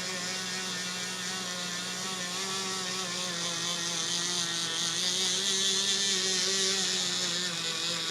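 Small handheld electric sander running steadily, a motor whine over a hiss of abrasive sanding down the yellowed toe box of a sneaker. The pitch wavers slightly as the tool is pressed and moved.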